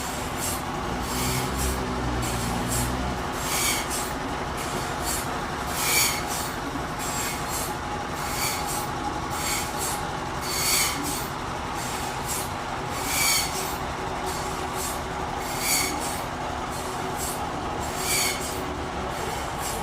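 Forklift running steadily, with a short high squeal that repeats about every two and a half seconds, and a heavier low drone for a couple of seconds near the start.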